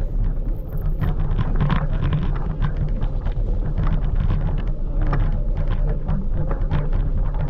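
Scooter rolling along a street: a steady low rumble, with frequent small rattles and knocks and wind buffeting the microphone.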